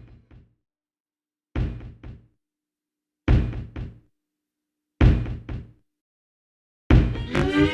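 Four heavy knocks, evenly spaced about one and a half seconds apart, each dying away within a second, with silence between them. Near the end a guitar song starts.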